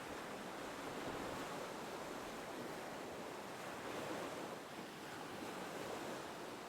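Gentle ocean waves washing in a soft, steady background, swelling and easing slightly.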